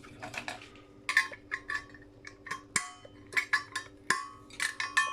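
Metal clinking and knocking as a brass light fitting is taken apart by hand: a quick run of sharp metallic taps, several ringing briefly.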